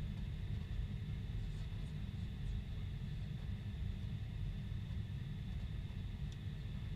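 Steady in-flight cabin noise of a Boeing 747-400: a constant low rumble of engines and airflow with a steady high whine over it.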